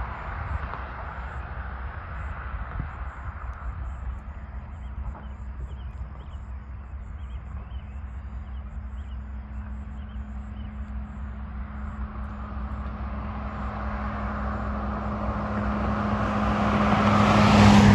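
A road vehicle approaching and passing close by, growing steadily louder to a peak near the end, its steady hum dropping in pitch as it goes past, over a constant low rumble.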